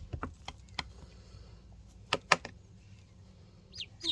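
Ducklings pecking at food in their box: scattered sharp taps and clicks of bills against the feeding board and box, the loudest about two seconds in, with a few faint duckling peeps near the end.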